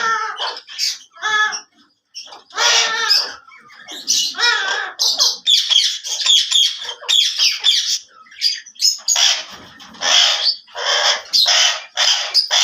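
Alexandrine parakeet calling over and over in loud, harsh squawks, a rapid string of short calls with only brief pauses.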